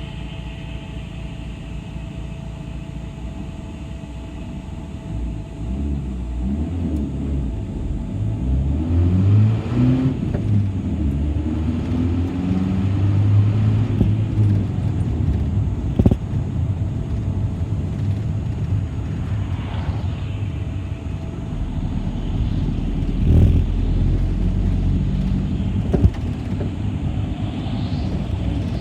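City bus moving with its engine running, its note climbing as it speeds up from about five seconds in over steady road rumble. A few short sharp knocks come later.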